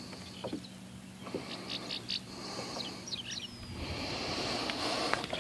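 Small birds chirping: a run of short, high, down-sweeping chirps and one gliding call. A soft hiss builds near the end.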